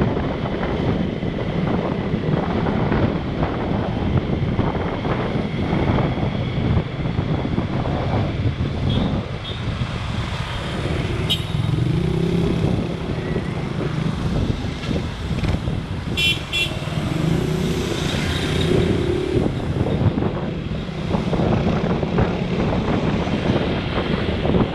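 Road traffic heard from a moving motorbike: wind rushing over the microphone and the running engines of motorcycles and cars around it, with engines rising in pitch twice. A short vehicle horn toots about two-thirds of the way through.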